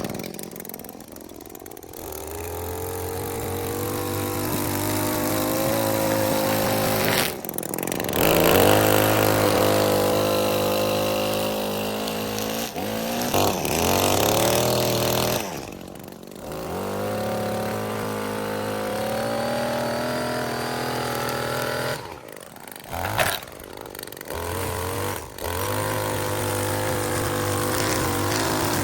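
Small gas engine of a handheld yard tool, a string trimmer or leaf blower, running and revving up and down, with a few brief drops in sound.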